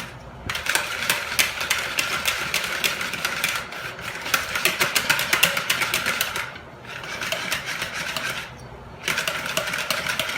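Wire whisk beating a thin yeast batter in a bowl, a fast run of clicking strokes against the bowl, several a second. The whisking pauses briefly twice in the second half. It is being beaten hard to get the lumps out of qatayef batter.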